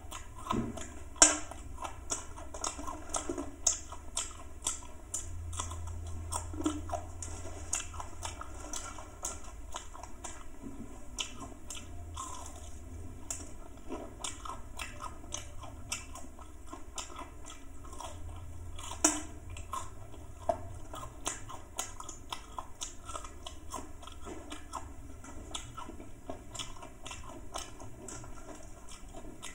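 A person chewing and biting fried pork pakora: a steady run of small mouth clicks, with a sharper click about a second in.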